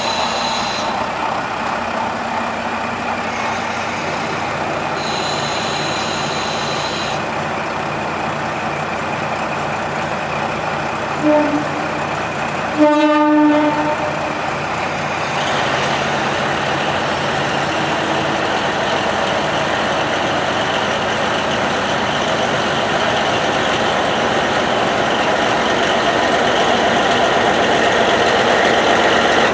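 Diesel train running steadily, with a short horn toot about eleven seconds in and a louder horn blast about two seconds later.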